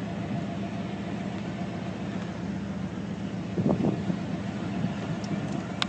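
Steady low hum of an idling vehicle engine under an even rush of background noise, with a brief louder sound about three and a half seconds in.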